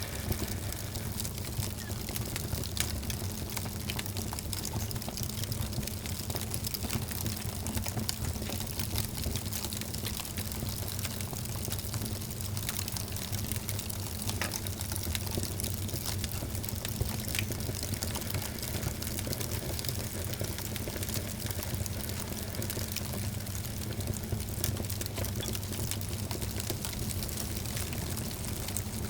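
Wood fire burning in a fireplace, crackling steadily with frequent small sharp pops over a low, even rumble.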